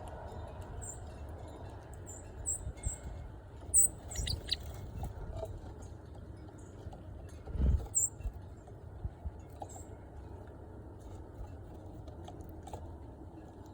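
Small birds giving short, very high chirps, several in the first few seconds and a few more later, among scattered light taps and clicks.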